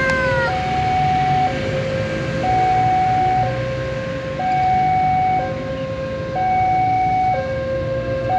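Two-tone emergency siren alternating between a low and a high note, each held about a second, in a steady hi-lo pattern over a low rumble. A falling whistle-like tone fades out in the first half second.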